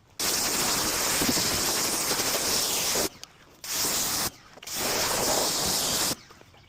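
Pressurised spray hissing in three bursts that start and stop sharply, the first about three seconds long, then a short one and a longer one.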